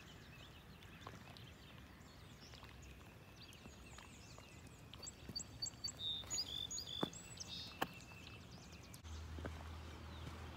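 Quiet lakeside ambience with a songbird singing a quick run of short, high chirps from about five to eight seconds in. A low, steady rumble comes in suddenly near the end.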